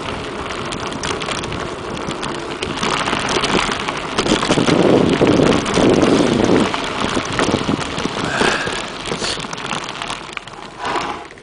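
Mountain bike rolling over a rough dirt trail: tyre crunch and rattling clicks, with wind buffeting the microphone. It is loudest in the middle and fades out at the end.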